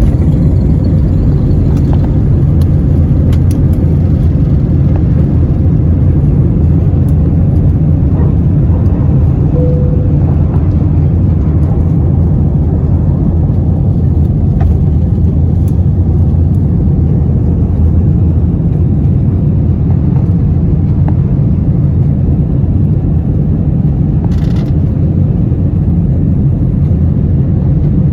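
Steady, loud low drone of engine and airflow noise inside the cabin of an Airbus A321 in flight.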